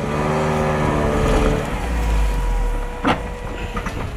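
Volga 31105 car engine revving hard and held at high revs under load as it tries to climb through snow, with the clutch slipping, then dropping back. A sharp knock about three seconds in.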